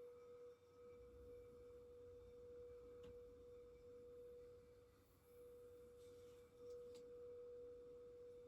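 Crystal singing bowl sustaining one faint, steady tone with a weaker higher overtone above it.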